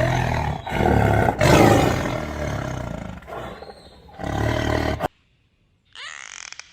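A big cat, such as a tiger, roaring loudly several times in a row, the last roar cut off abruptly about five seconds in. Near the end a fainter, high-pitched call with gliding notes from another animal begins.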